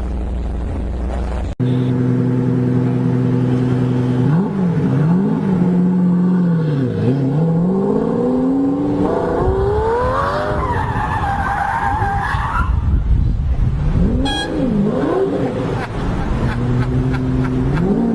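Car engine revving up and down through gear changes, with tyre squeal partway through as the car skids. There is a sudden cut about a second and a half in.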